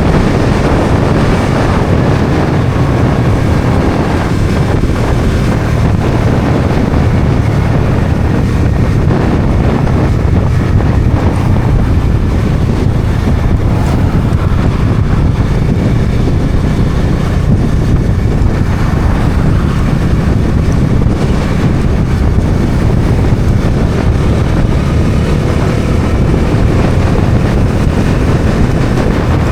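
Bajaj Dominar 400's single-cylinder engine running steadily while riding, mixed with heavy wind rush on the microphone.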